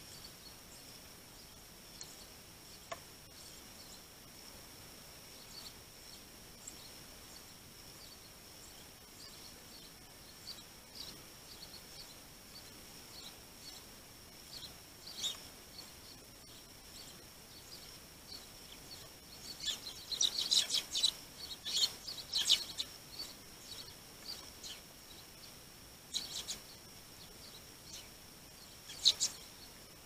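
Small birds at a feeder giving short high chirps. They come scattered at first, then in a busy burst about two-thirds of the way through, with two more loud chirps near the end. A steady faint high whine runs underneath.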